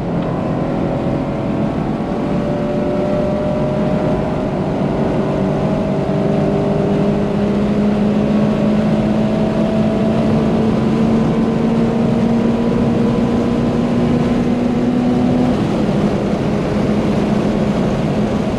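Subaru BRZ's tuned flat-four engine, with a full catless exhaust and an unequal-length Tomei header, pulling hard at high revs, heard from inside the cabin over wind and tyre noise. The pitch climbs slowly through the gear, with one upshift late on.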